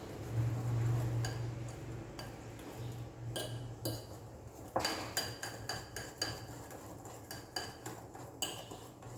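A spoon stirring cake batter in a bowl, knocking and clinking against the bowl many times, with short ringing clinks. A low steady hum runs under the first few seconds.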